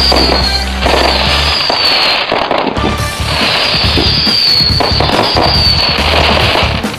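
Aerial fireworks bursting and crackling in quick succession, with music playing alongside.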